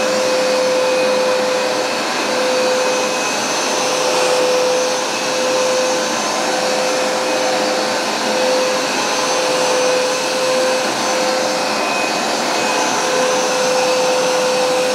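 Hoover SmartWash Pet automatic carpet cleaner running: a steady motor rush with one constant tone, its loudness swelling and easing slightly.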